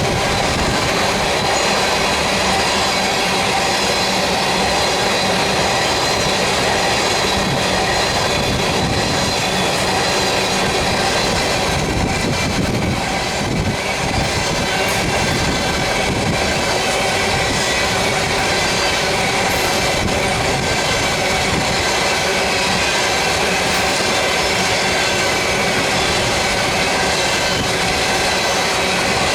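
Train of loaded crude-oil tank cars rolling past, steel wheels clicking over the rail and steady high-pitched tones from wheel squeal running through it.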